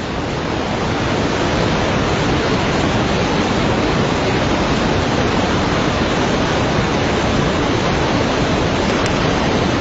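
Floodwater rushing in a steady, loud roar of noise that fades in at the start and holds even throughout.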